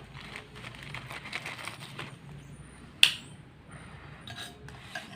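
Eating from a bowl: light cutlery clicks and crunchy chewing of kerupuk crackers, then a metal utensil clinks sharply against the bowl about three seconds in, with a short ring, followed by a few smaller clinks.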